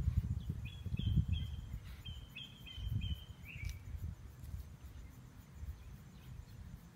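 A bird calling a run of about eight short high notes over three seconds, the last one dropping in pitch, over a low rumbling noise on the microphone that is strongest in the first second or so.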